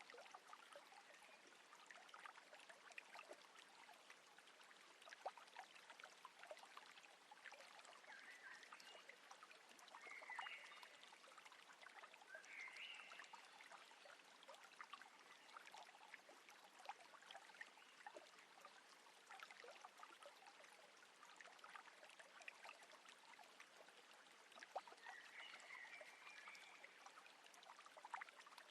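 Faint water trickling and lapping, with many small ticks and splashes, and a few faint short chirps around the middle and near the end.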